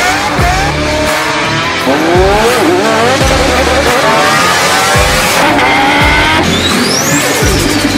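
Car engines revving and accelerating through the gears, one rising sweep after another, mixed with intro music and regular low thumps. Near the end a high squeal rises and falls.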